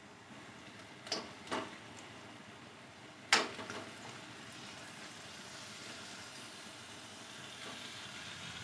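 Faint sizzling in a kadai as raw chicken pieces go into the cooked-down spice paste, with a few light knocks of utensils against the pan, the loudest about three seconds in. The sizzle grows a little louder in the second half.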